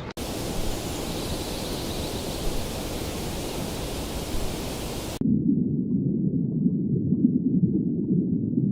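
A steady rushing noise, like water or wind, that cuts off abruptly about five seconds in and gives way to a louder, muffled low rumble.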